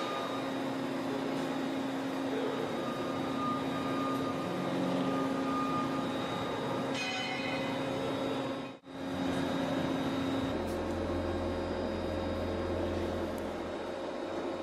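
Steady mechanical drone with several held tones. It breaks off sharply about nine seconds in, then resumes, and a deeper hum joins shortly after.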